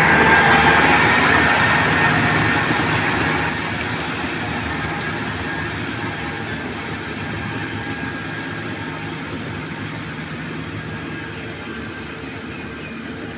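Tractor engine running steadily while plowing through mud, with a low hum and steady tones; it drops in level about three and a half seconds in, then slowly fades.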